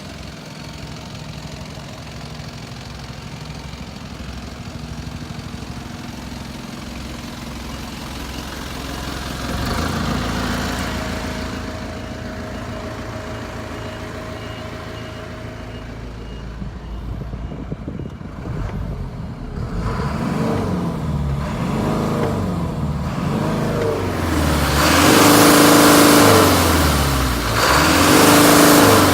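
Mitsubishi Canter truck engine idling steadily, then revved several times, the pitch rising and falling with each rev, loudest near the end.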